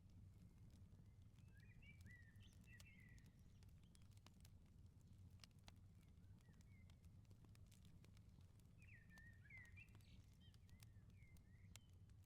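Faint firepit crackling: scattered small pops over a low steady rumble. A songbird twitters in two short bouts, about a second and a half in and again around nine seconds in.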